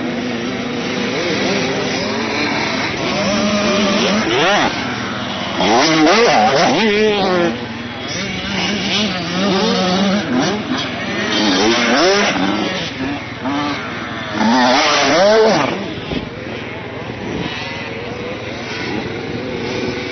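Several motocross bikes riding around a dirt track, their engines revving up and down through the gears in overlapping rising and falling whines. The bikes swell louder as they pass close, about six, twelve and fifteen seconds in.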